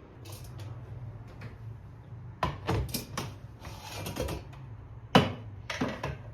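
Household objects being handled: a run of clicks and knocks with short rustling or scraping between them, the loudest knock about five seconds in.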